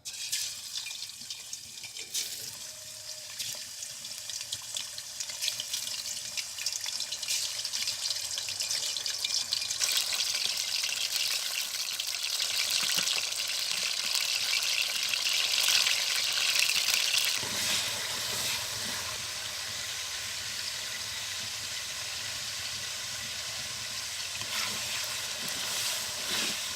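Half a kilo of chicken pieces sizzling and crackling in hot oil, the frying growing louder through the first half and settling to a steadier sizzle a little past the middle.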